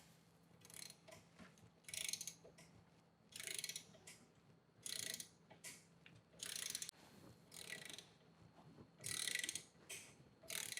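Hand ratchet wrench clicking in short runs, about seven strokes roughly a second and a half apart, as a bolt is run in on a brake caliper's pad retaining hardware.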